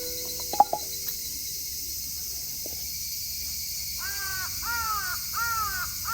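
A crow cawing: a run of four harsh caws about two-thirds of a second apart, starting about four seconds in. A couple of sharp clicks come near the start.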